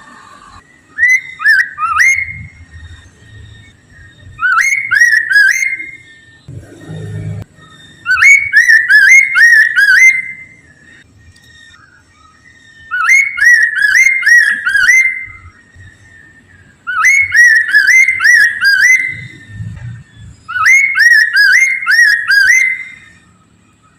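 A poksay mandarin laughingthrush singing loud, clear whistled phrases, each a quick run of four to six sliding notes lasting one to two seconds, repeated about every three to four seconds with pauses between. A brief low thump comes about seven seconds in.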